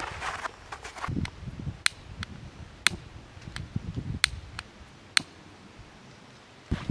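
Scattered sharp knocks and clicks with a few dull thuds, quieter near the end.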